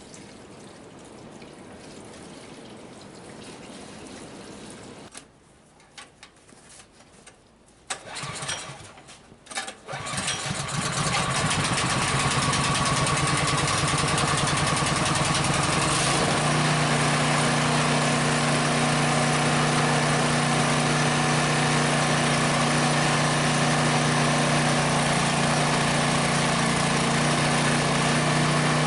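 Small gasoline engine starting: a few sputters about eight seconds in, catching near ten seconds, then running steadily with an even pitch.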